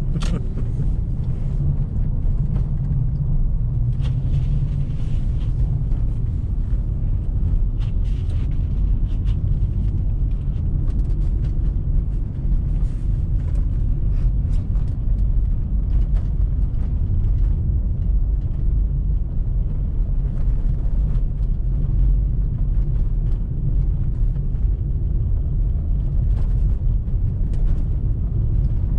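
Car driving through deep snow: a steady low rumble of engine and tyres, with faint ticks now and then.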